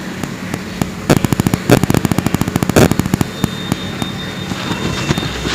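Close-miked chewing of fresh powdery ice: dense runs of rapid crackling crunches, heaviest between about one and three seconds in.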